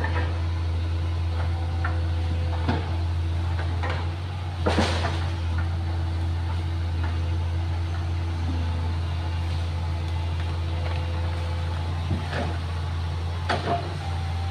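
Excavator diesel engine running at a steady low hum, with scattered clanks and knocks from the machine at work, the loudest about five seconds in.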